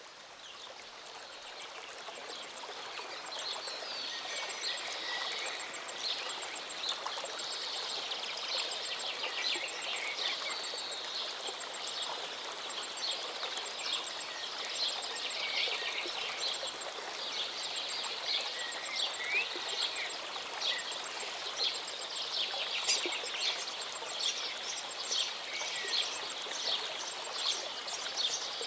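Water of a small mountain waterfall running steadily, with many birds chirping and singing over it in quick, overlapping calls. The sound fades in over the first few seconds.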